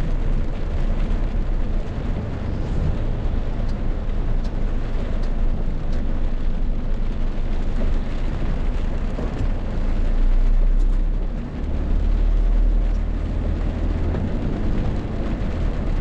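Rainstorm: heavy rain and gusting wind making a loud, steady rushing noise with a deep rumble. The rumble swells twice in the second half.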